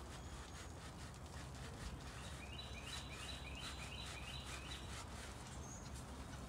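A bird calling a quick run of about eight high chirps, about three a second, partway through, over a steady low outdoor rumble. Faint soft strokes of a soapy sponge scrubbing a brake caliper.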